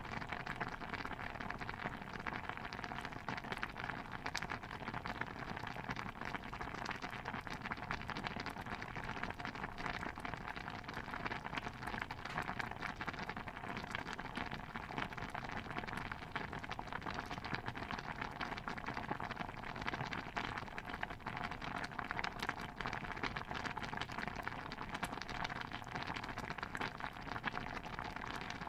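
Stew bubbling steadily, a dense, even patter of small pops with no separate louder strikes.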